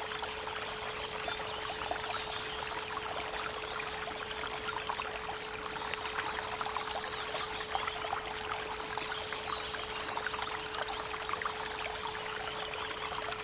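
Creek water babbling steadily, with birds chirping and trilling, over a steady 432 Hz pure tone.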